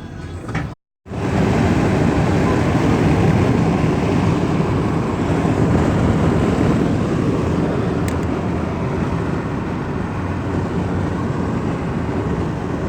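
Lada Kalina 2 wagon driving on the open road, heard from inside: steady road and wind noise. The sound cuts out briefly about a second in, then runs on evenly.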